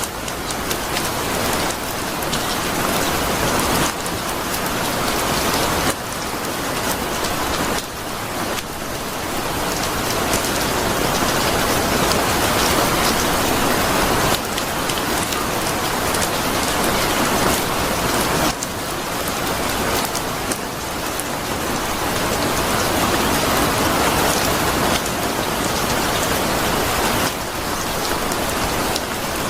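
Steady rain falling on surfaces, a dense pattering hiss that swells and eases every few seconds.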